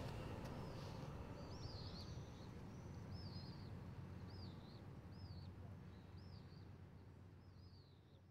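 Faint bird chirps, short high calls repeated about once a second, over a low outdoor hum, all fading away toward the end.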